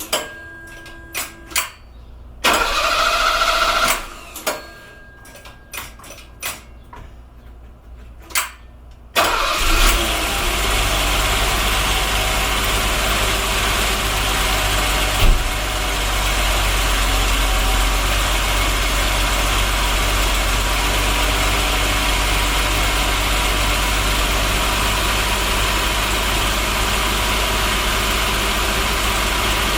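Cold start of a 1974 Mercedes-Benz 280C's carburetted M110 twin-cam straight-six. After several clicks and a short burst of cranking, the engine catches about nine seconds in and settles into a steady idle, with one knock a few seconds later.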